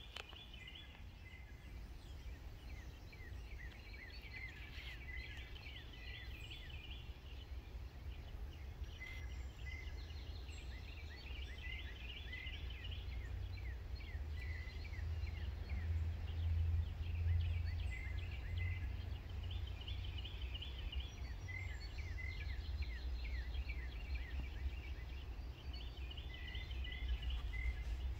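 Songbirds chirping and trilling in repeated short phrases, over a low rumble that slowly grows louder.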